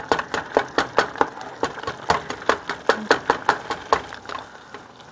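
A utensil chopping against a frying pan, breaking up browning ground beef: quick, even knocks about four a second that stop shortly before the end.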